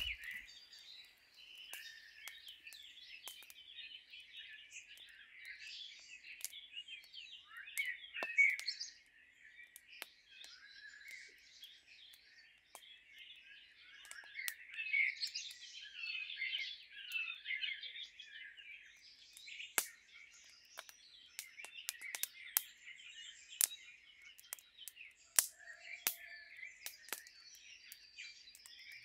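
Several wild birds singing and chirping together, a busy chorus of high calls that swells and dips, with scattered sharp clicks over it.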